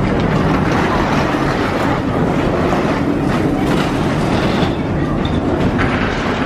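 Steady rumble and rattle of a moving vehicle.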